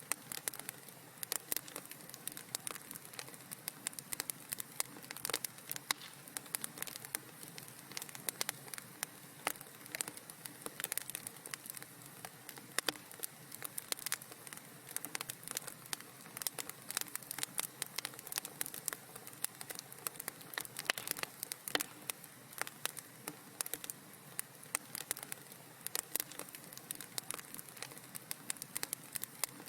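Wood fire in a fireplace crackling: many quick, irregular pops and snaps over a soft hiss.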